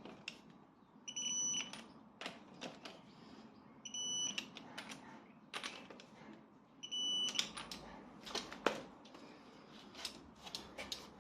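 Digital torque wrench beeping three times, short high beeps about three seconds apart, each as a wheel nut reaches the set torque, with sharp clicks of the wrench on the nuts between the beeps.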